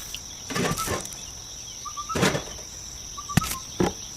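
A few short knocks and scrapes, about four in as many seconds, from handling small bricks or tools in hands-on miniature construction work, over a steady high insect buzz with faint short bird chirps.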